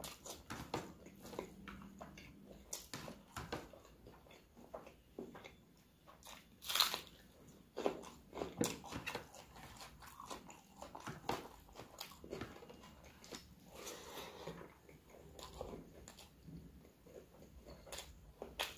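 A person eating rice, puri and curry by hand close to the microphone: chewing and biting, heard as irregular short mouth clicks, with one louder crunching bite about seven seconds in.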